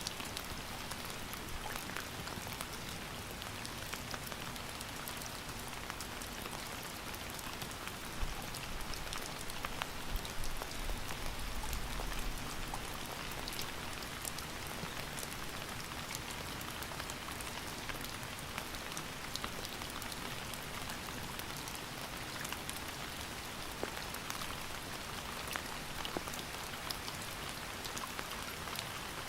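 Steady rain falling, a constant hiss dotted with the ticks of individual drops hitting a surface, with a few low thuds between about 8 and 12 seconds in.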